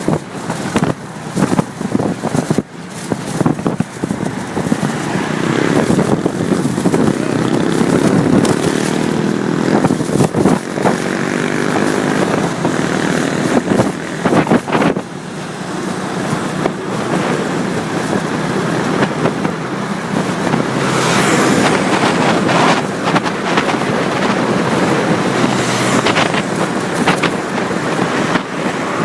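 Motorcycle engine running while the bike is ridden along the road, its pitch shifting as the speed changes a few seconds in, over a steady rush of road and wind noise.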